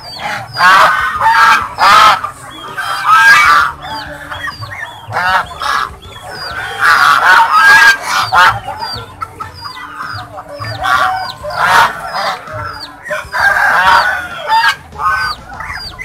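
Waterfowl honking, loud calls that come in repeated bursts, with short high peeps in between.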